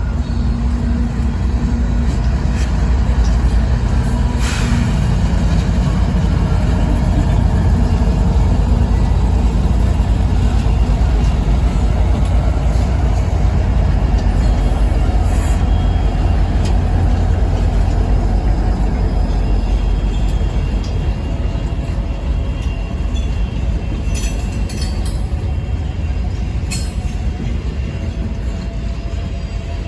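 Freight train led by three CSX diesel locomotives passing, with a loud, steady low engine rumble. A few brief sharp sounds come about four seconds in and again near the end, and the rumble eases a little as it ends.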